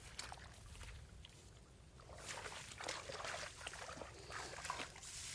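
Shallow water sloshing and splashing in irregular bursts, sparse at first and busier from about two seconds in.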